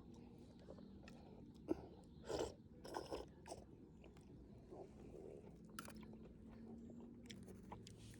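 A person eating close to the microphone: faint chewing and biting, with a cluster of short crunches and clicks a couple of seconds in and another near the end.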